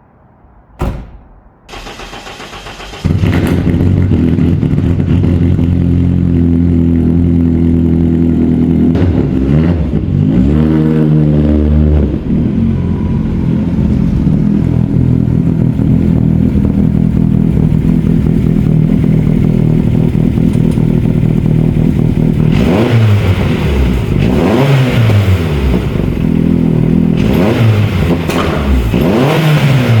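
A thump, then the engine of an Opel Manta 400 rally replica cranking and starting, settling into a loud idle. It is revved briefly, then revved up and down repeatedly near the end.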